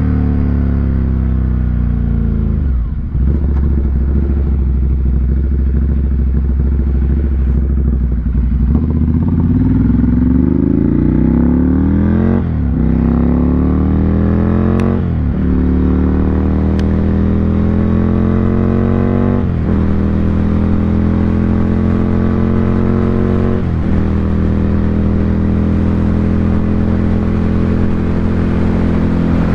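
2018 Ducati Monster 797's air-cooled L-twin engine through an SC Project exhaust, running under way. The engine pitch climbs and then falls sharply several times, like upshifts, before holding fairly steady.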